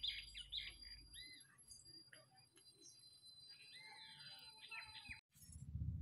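Small birds chirping and calling in quick, short notes, in clusters and then again a little later. Near the end a low hum comes in and grows louder.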